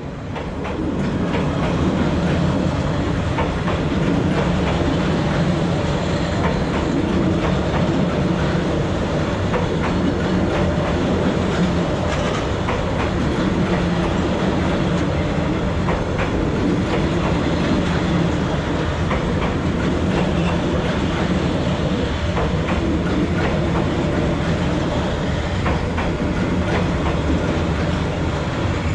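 Train passing at close range: a loud steady rumble with the rapid clickety-clack of its wheels over the rail joints, building up within the first second or two.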